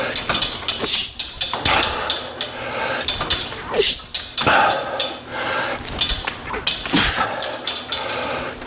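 A man breathing hard during a strength-training set, with a breath every second or two, over repeated sharp clanks and clicks from metal gym equipment.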